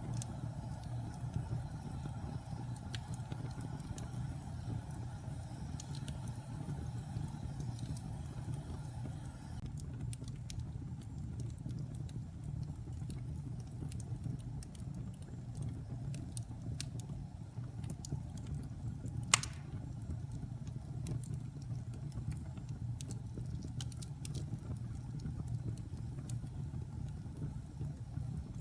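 Wood fire burning in a fireplace: a steady low rumble with scattered small crackles and pops, and one sharp, loud pop about two-thirds of the way through.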